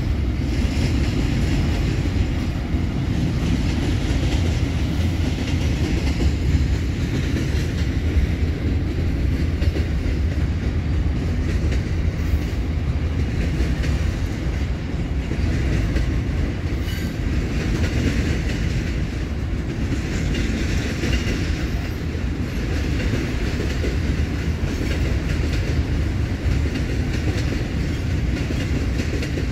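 Loaded container wagons of an intermodal freight train rolling past at steady speed: a continuous, even rumble of steel wheels on the rails.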